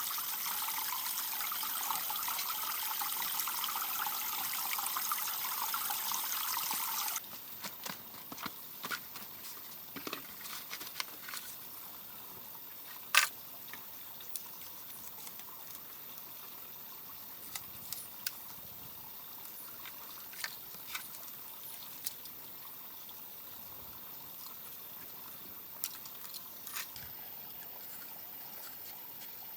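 Water running and pouring steadily, stopping abruptly about seven seconds in. After that come faint scattered clicks and knocks, with one sharper knock about halfway through.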